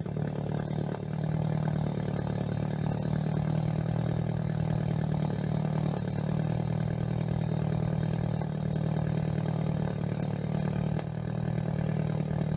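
Tuned Peugeot RCZ's 1.6 THP turbocharged four-cylinder engine idling steadily, heard at the twin exhaust tips as a low, even rumble.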